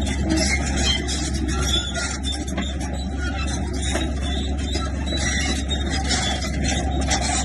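Bulldozer at work: the engine runs steadily under a constant clatter of tracks and stones scraping and knocking.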